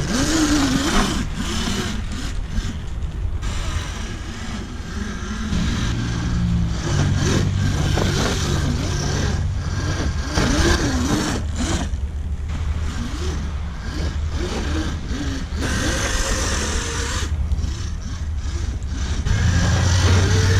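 Dirt bike motor running with a steady low hum, its pitch rising and falling with the throttle.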